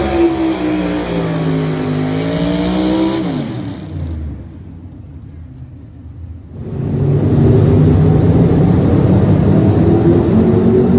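Small-block V8 engine of a four-wheel-drive pulling truck under hard throttle, its pitch falling as it winds down in the first few seconds. After a quieter gap of about three seconds it comes back loud, with its pitch climbing steadily through the rest.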